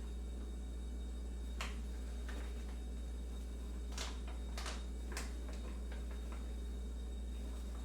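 Kitchen ambience: a steady low hum with scattered light, sharp clicks and clinks of kitchenware, about half a dozen, most of them in the middle of the stretch.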